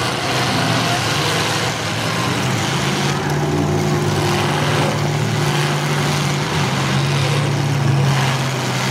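Demolition derby cars' engines running loud and steady, the engine note shifting up and down as the wrecked cars shove against one another.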